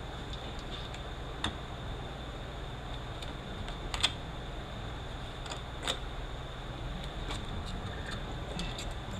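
Sparse light clicks and taps of hand tools and parts on an automatic transmission being taken apart, the sharpest about four seconds in, over a steady low hum.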